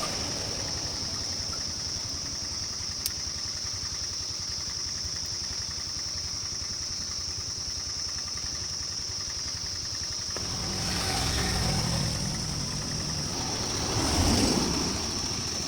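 An engine running steadily, rising in level twice in the last few seconds, with a steady high-pitched tone throughout.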